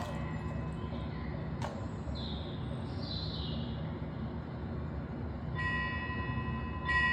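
A small bell struck twice near the end, each strike ringing on with a clear, steady high tone, over a steady low rumbling background noise.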